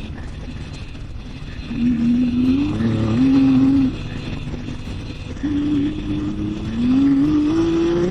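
Motorcycle engine accelerating over road and wind rumble. Its note climbs, drops back at a gear change and climbs again. The engine comes in loud about two seconds in, eases off, then pulls hard again for the last few seconds.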